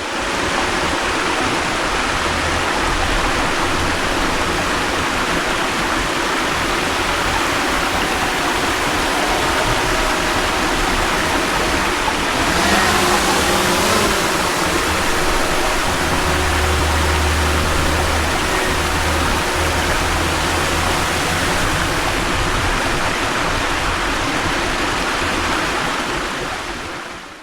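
Waterfall and stream: a loud, steady rush of falling and running water that holds even throughout.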